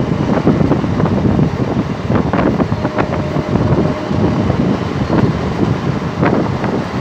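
Two trains running side by side, heard from an open coach door: a steady rumble of steel wheels on the track and wind buffeting the microphone. A few sharp clanks of wheels crossing rail joints come through it.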